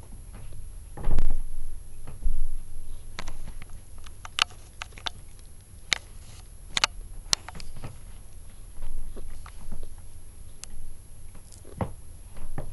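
Kittens moving about: light, irregular taps and clicks, with a louder thump about a second in.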